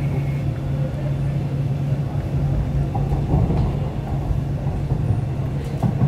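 MTR East Rail line R-Train heard from inside the carriage while running: a steady low hum over constant wheel-on-track rumble, with a few sharp clicks near the end.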